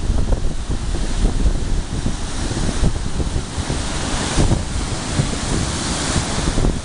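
Baltic Sea waves washing onto the shore, with strong wind buffeting the microphone; the hiss of the surf swells for a couple of seconds past the middle.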